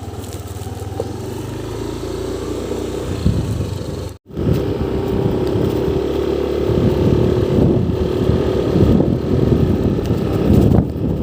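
A motor vehicle running on the road, with steady engine and road noise. The sound drops out for an instant about four seconds in, then carries on with a steady engine note.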